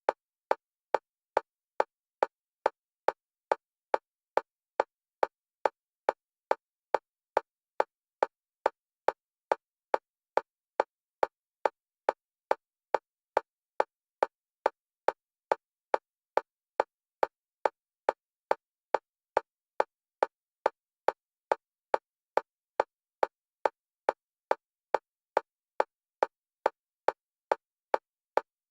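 Digital metronome clicks, one pitch, at an even fast pace of about two a second. The clicks alternate between the left and right stereo channels for EMDR bilateral stimulation.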